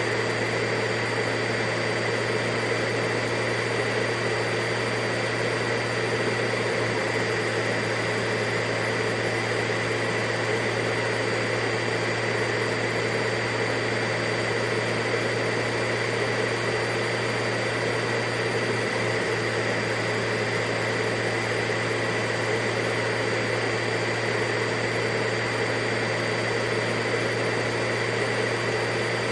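Vacuum cleaner running steadily, a constant motor whine over an even rush of airflow, with a low hum underneath.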